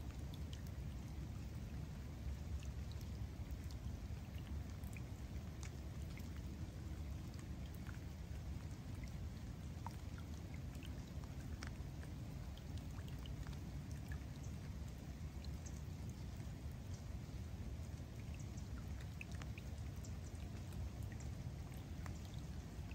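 Steady rain falling on a lake's surface: an even wash of noise dotted with many small, scattered drop ticks.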